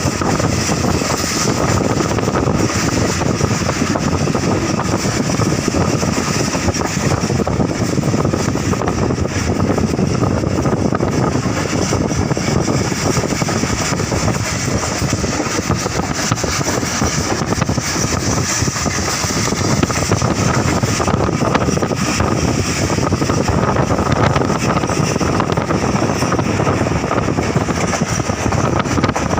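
Passenger train running at speed: a steady rumble and rush of wheels on the rails, with a faint steady whine.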